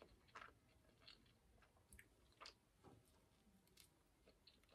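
Faint chewing and biting of a flaky pastry: scattered soft crunches and mouth clicks, very quiet.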